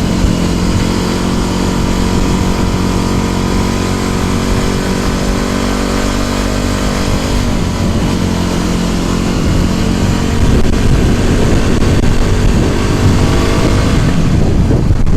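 Scooter motor running steadily while riding, with wind on the microphone. The motor's note shifts about seven and a half seconds in, and the wind grows louder near the end.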